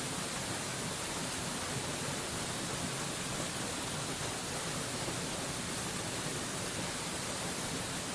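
Waterfall rushing: a steady, even hiss of falling water with no change in level.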